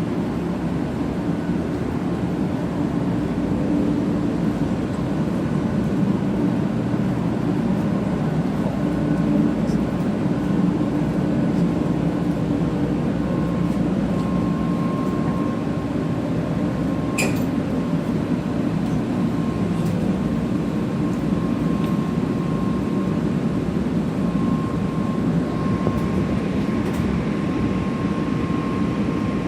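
Steady low hum of a 500 series Shinkansen standing at the platform with its on-board equipment running. A faint steady high tone joins about halfway through, and there is a single click near the middle.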